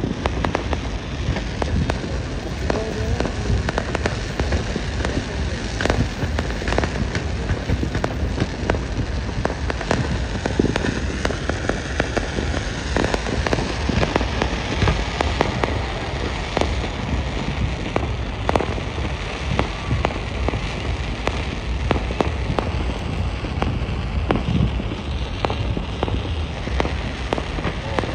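Fireworks going off without a break: a dense crackling hiss packed with many sharp pops and bangs.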